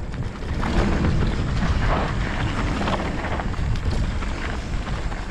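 Mountain bike riding down a trail: heavy wind buffeting on the microphone, with tyre noise and scattered knocks and clatter from the bike over rough ground.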